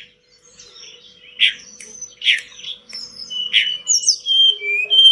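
Tledekan gunung songbird singing: sharp loud chirps about every second, mixed with high whistled notes that slide up and down, running into a fast trill near the end.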